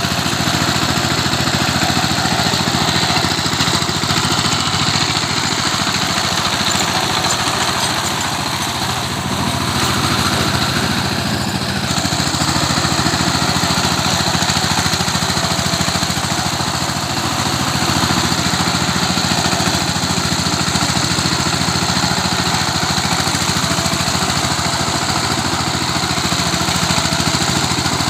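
Tractor engine running steadily as it churns a field into mud, easing slightly twice.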